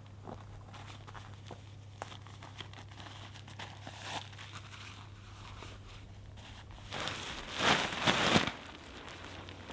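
Scattered light ticks and rustles over a low steady hum, then a louder burst of crinkling and rustling about seven seconds in that lasts under two seconds, as of material being handled.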